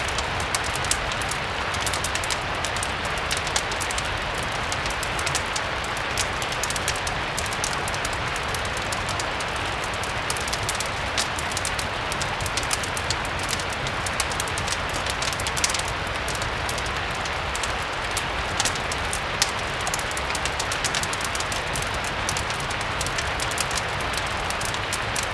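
Steady rain ambience mixed with the crackle of a wood fire: an even hiss of rain with many small sharp crackles and ticks scattered throughout.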